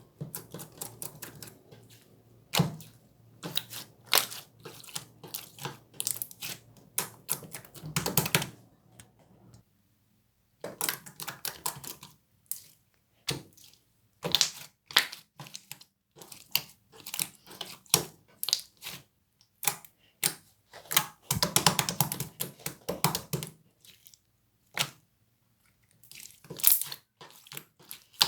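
Grape-jelly slime being squeezed and worked by hand, giving quick runs of sticky clicks and crackling pops that stop briefly twice.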